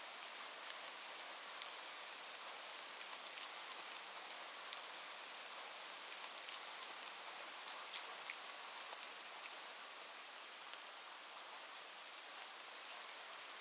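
Steady rainfall: an even hiss of rain with many small scattered drop ticks.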